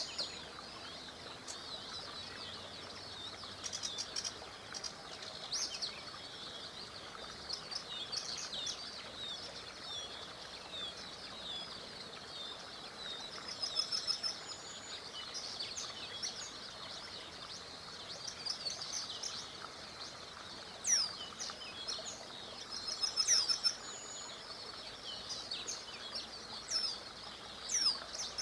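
Several small songbirds chirping and trilling in quick, overlapping phrases, with a few louder bursts, over the steady even rush of a small river.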